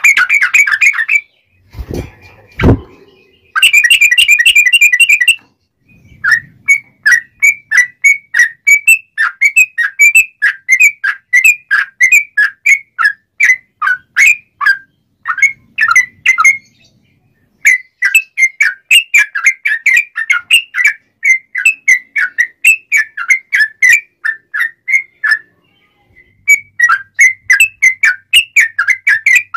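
Yellow-vented bulbul (trucukan) singing in a steady string of short, clear whistled notes, about two or three a second, in long runs broken by brief pauses. Two low thumps come about two seconds in.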